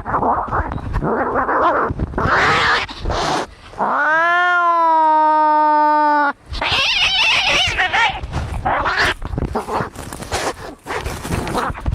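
Domestic cats fighting: harsh, noisy screeching cries, broken by one long yowl about four seconds in that rises and then holds steady for about two seconds, then more harsh screeching.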